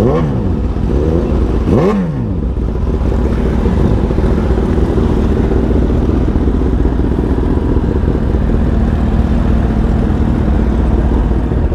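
Kawasaki ZX-10RR inline-four sport bike engine running steadily under way, with wind noise. Near the start, two quick dips and rises in engine pitch.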